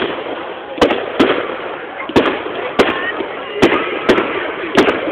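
Display fireworks going off: about eight sharp bangs at uneven intervals, some close together, over a steady hubbub.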